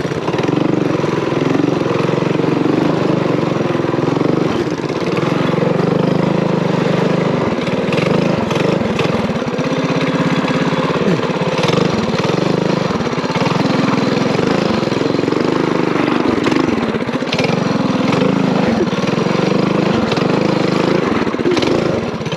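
Small single-cylinder engine of an off-road mini bike running under load on a trail, its revs dipping and rising repeatedly through the middle.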